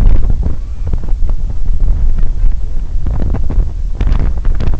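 Wind buffeting the microphone, a loud low rumble, with a few short knocks or rustles after about three seconds.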